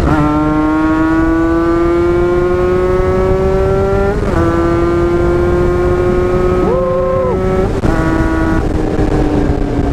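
Yamaha RX-King two-stroke motorcycle engine pulling hard at full throttle. The revs climb steadily in one gear, dip sharply at a gear change about four seconds in and again near eight seconds, then ease off near the end.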